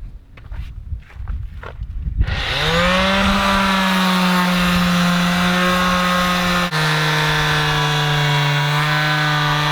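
Power sander switched on: the motor spins up over about half a second, then runs at a steady hum. About two-thirds of the way in the pitch drops suddenly, as the motor slows under load against the hull. Before it starts, the first two seconds hold only a few faint clicks.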